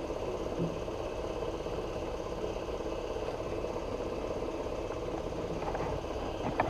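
Sand blast gun spraying glass bead media onto an oxidized motorcycle engine, a steady hiss over a constant machine hum.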